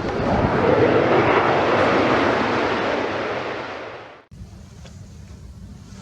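Aircraft flying past close by, a loud rushing roar that peaks about a second in and then fades. It is cut off abruptly just after four seconds, leaving a quieter low steady rumble.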